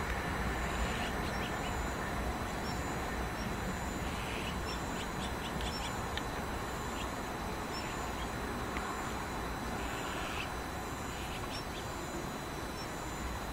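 Distant KTX-Sancheon high-speed train running away, its rumble slowly fading. Short bird chirps and a faint high call repeating about every second sound over it.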